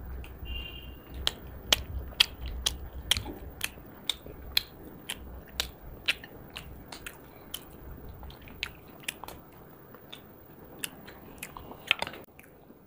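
Close-miked chewing and lip-smacking of people eating chicken curry and chilli chicken by hand: irregular sharp clicks and smacks, a few every second.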